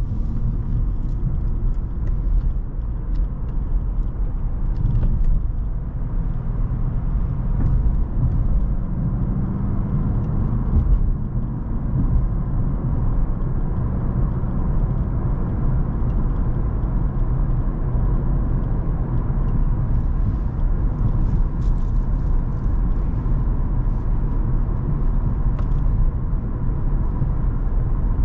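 Cadillac CTS with a 3.6-litre twin-turbo V6 driving along steadily: a continuous low engine and road rumble with a faint steady whine above it, no hard acceleration.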